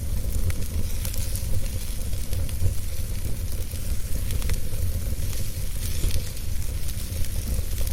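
Wood fire burning in a fireplace: steady crackling with scattered small pops over a constant hiss and a deep, even rumble.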